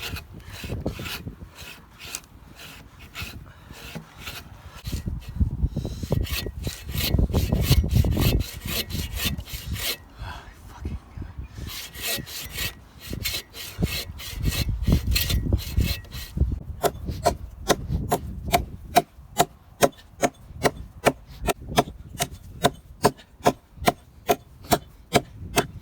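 Hand saw cutting through wood in steady back-and-forth strokes, pausing briefly about ten seconds in. It then settles into a regular rhythm of about two strokes a second.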